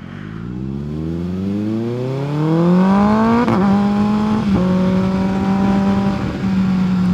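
Kawasaki ZX-6R 636 inline-four engine accelerating, its pitch rising for about three seconds, then two quick upshifts about a second apart before it settles into a steady cruise.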